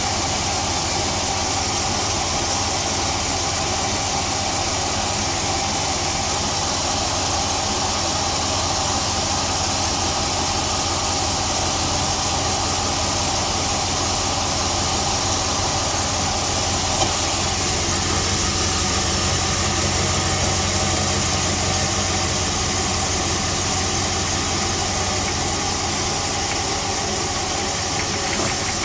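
Jeep Grand Cherokee WJ 4.7L HO V8 idling cold with a steady, rapid knocking clatter: piston slap, which the owner calls normal for the HO at cold startup. A single sharp click partway through.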